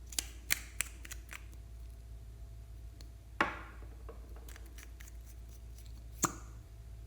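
Small handling noises from slime and makeup being worked by hand: a quick run of sharp clicks, then a louder crackling snap about three and a half seconds in, faint ticks, and one more sharp click near the end.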